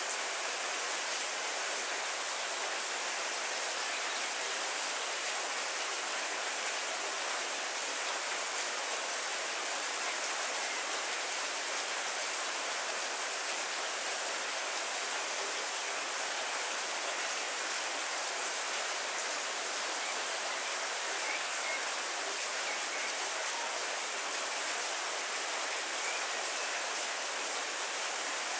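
Heavy rain falling steadily on trees and leafy foliage, an even hiss with no breaks.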